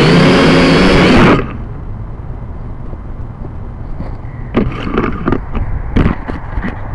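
Quadcopter drone's propellers whining with wind noise, cutting off suddenly about a second in. After that comes a quieter low rumble with a scatter of short taps and clicks.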